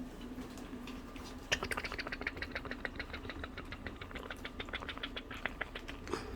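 Havanese puppies playing: a fast run of short clicks and squeaks, about eight to ten a second, starting about a second and a half in and lasting about four seconds.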